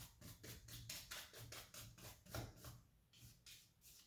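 Faint paintbrush strokes on canvas: a quick run of short dabs and brushes at about four a second, thinning out near the end.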